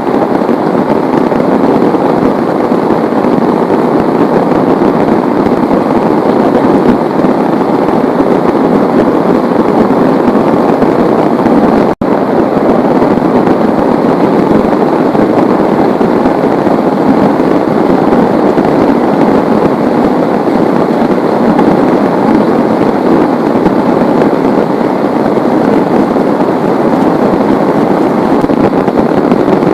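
Heavy rain pouring down, a loud, dense, steady noise with no distinct drops or thunder; it cuts out for an instant about twelve seconds in.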